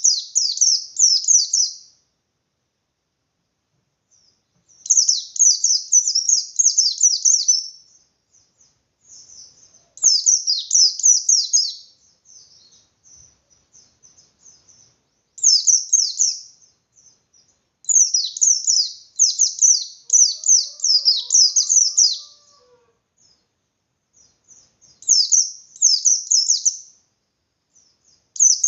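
Pleci (white-eye) singing its aggressive 'ngalas' fighting song: bursts of fast, high-pitched chattering notes, each lasting two to four seconds, repeated about seven times with short pauses between them.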